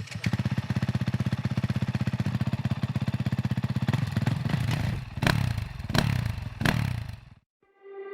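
Motocross motorcycle engine idling with a fast, even pulse, then revved in three short blips about a second apart before it cuts off.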